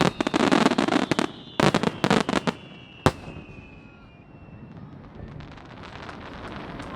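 Aerial fireworks going off in rapid crackling volleys, with a falling whistle among them. One last sharp bang comes about three seconds in, then the sound dies down to faint scattered crackle.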